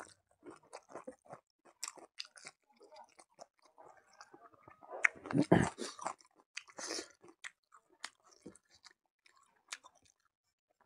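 A man chewing a mouthful of rice and buffalo meat, heard close up as a run of short clicks from the mouth, with one louder burst of sound about five and a half seconds in.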